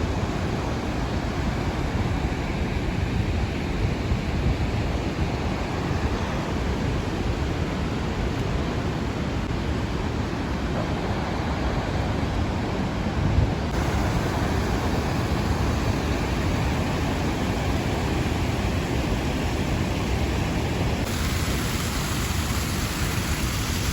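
Rhine Falls roaring: a steady, even rush of falling water. Its upper hiss turns abruptly brighter about 14 seconds in and again near the end.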